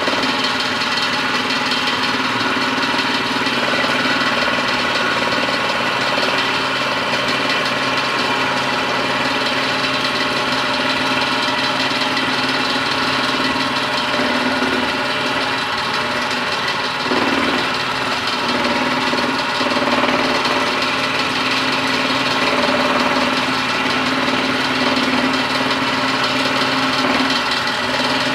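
Homemade scroll saw built from a sewing machine running steadily, its motor and reciprocating blade mechanism making a constant mechanical hum with a rapid chatter.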